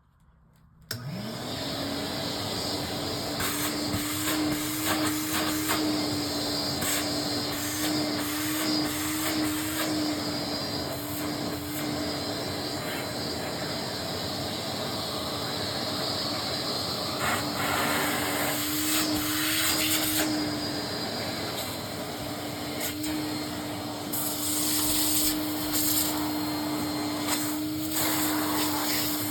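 Hoover Constellation canister vacuum cleaner switched on about a second in, its motor spinning up quickly to a steady whine over a loud rush of air. The rush swells and changes at times later on while the whine holds steady.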